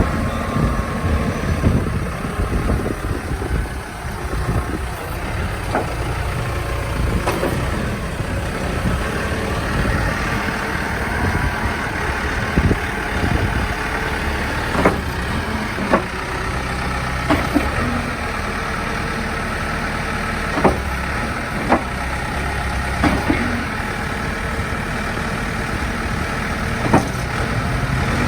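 JCB 215E backhoe loader's diesel engine running steadily, with a sharp knock every few seconds.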